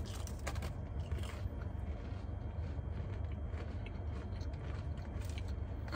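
Two people crunching and chewing crispy Oreo cookies, with scattered small crackles, over a steady low hum in the car cabin.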